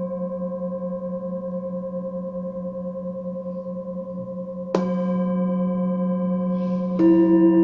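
Singing bowls ringing, their tones held and wavering in loudness. A bowl is struck about two-thirds of the way through, and a second, louder bowl near the end, each adding its own lasting tone.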